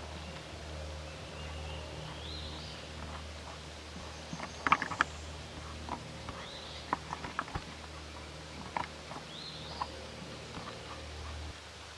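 Woodland ambience: a bird repeating a short rising call every three seconds or so, over a steady low hum, with scattered sharp clicks and taps that are loudest about five seconds in.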